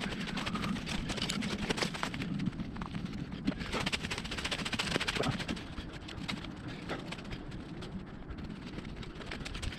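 Footsteps through undergrowth on the forest floor: an irregular stream of crunches and crackles, busiest in the first five seconds or so and lighter after that.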